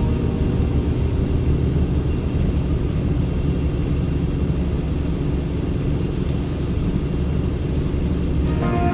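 Steady low rumble of a car driving on a wet highway: road and tyre noise with engine drone. Music starts again near the end.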